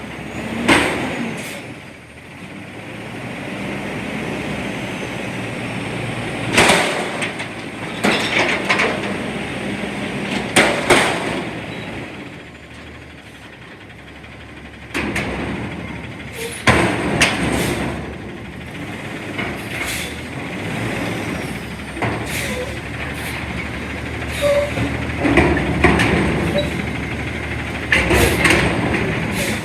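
CNG front-loader garbage truck working a container: the engine runs steadily while the steel dumpster and lift arms bang and clank a dozen or so times, with quieter stretches between the knocks.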